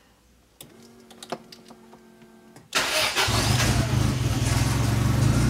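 A faint hum and a few light clicks, then about three seconds in the Lotus Elan M100's turbocharged Isuzu four-cylinder engine fires after a brief crank. It settles straight into a steady idle of about 950 rpm, with the engine warm.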